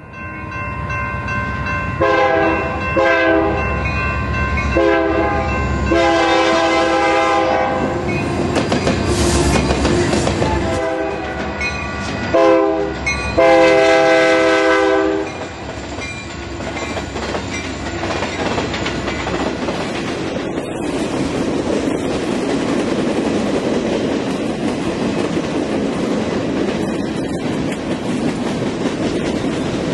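Union Pacific freight locomotives sounding a multi-note air horn for a grade crossing: a series of blasts, the last one long, ending about 15 seconds in. Then the steady rumble and clickety-clack of freight cars rolling past.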